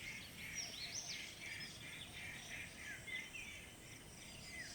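Faint chorus of wild birds, many short chirps and whistled notes overlapping, some sliding up and some down in pitch.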